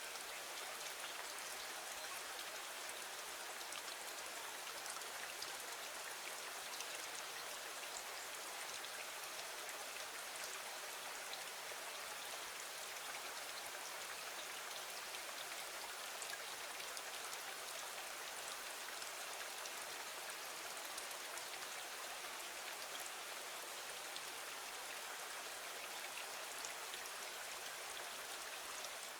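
Steady rain falling against a window, an even hiss of drops with faint scattered ticks that neither builds nor fades.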